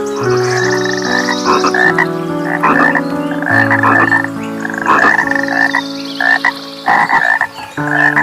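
Frogs croaking in a chorus: short calls repeat every half second to a second, over overlapping steady low notes and a falling high trill.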